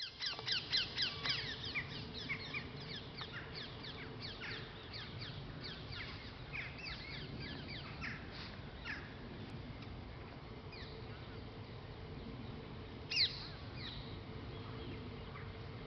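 Birds calling: a fast run of short, falling calls in the first couple of seconds, then scattered calls, with one louder call about 13 seconds in, over a steady low hum.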